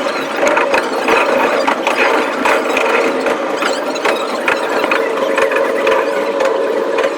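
Electric commuter train running slowly, heard from on board: a steady squeal from the wheels on the rails with many short clicks and knocks from the track.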